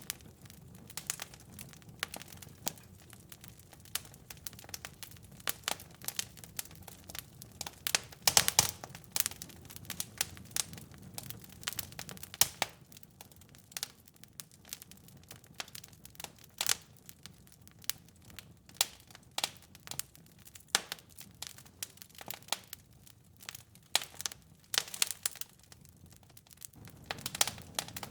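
Wood fire crackling in a fireplace: irregular sharp pops and snaps over a soft low rumble of the flames, with a flurry of louder pops about eight seconds in.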